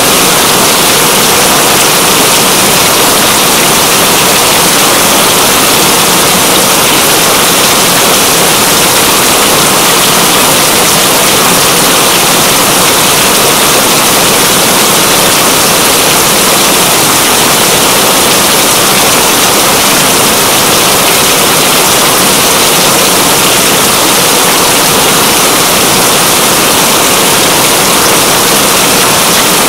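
Steady, loud rain falling hard: a dense, even hiss that never lets up.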